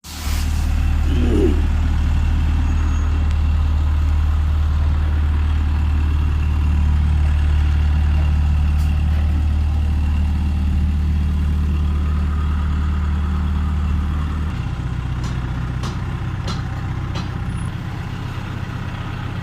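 Ashok Leyland BS3 diesel truck engine running steadily at idle, with a deep, even note that shifts lower about fourteen seconds in.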